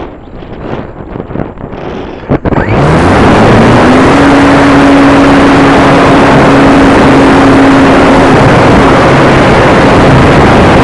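Model airplane engine that suddenly runs up to high revs about two and a half seconds in, its pitch rising briefly and then holding steady. It is very loud, with a strong hiss of noise over the engine note.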